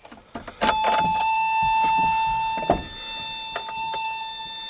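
1988 Toyota pickup's warning buzzer sounding a steady high tone from about half a second in, with a few light clicks and one knock underneath.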